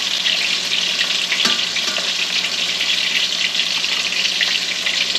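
Breaded catfish pieces frying in hot oil in a stainless skillet: a steady, loud sizzle.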